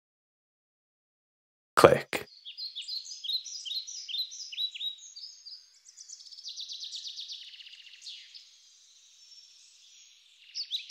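Silence, then a single short knock about two seconds in, followed by birds chirping with quick falling notes and rapid trills for the rest.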